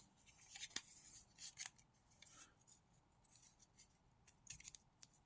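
Faint small clicks and scraping as an AAA rechargeable battery is fitted against the contacts of a small handheld battery tester, the clicks clustered in the first couple of seconds and again near the end.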